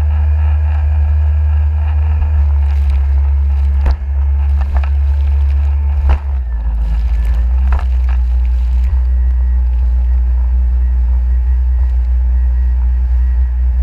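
Jet ski engine running steadily under a loud, deep wind rumble on the microphone, with a few sharp knocks about four, six and eight seconds in.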